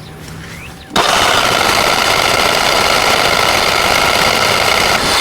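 Generac 20 kW home standby generator engine cranking on its starter without catching: a loud, rapid hammering run that starts suddenly about a second in and cuts off abruptly about four seconds later.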